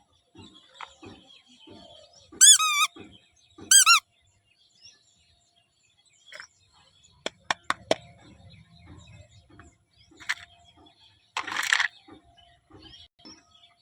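Handling and unboxing of a miniature toy kitchen set: two loud squeaks with wavering pitch, a quick run of sharp clicks, soft taps, and a brief rustle near the end.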